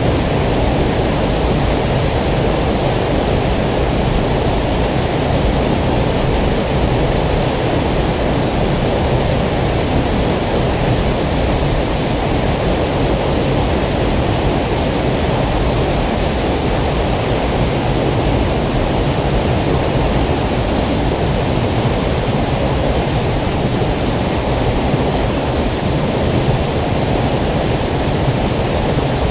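Steady rush of flowing water, an even noise at a constant level with no swells or separate splashes.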